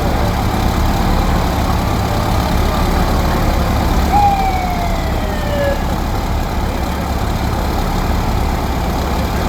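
Fire truck engines running with a steady low rumble as the trucks idle and creep along. About four seconds in, a short tone slides down in pitch over a second or two.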